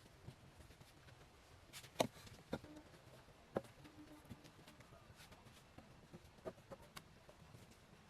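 A few scattered light knocks and clicks, the sharpest about two seconds in, over faint background noise.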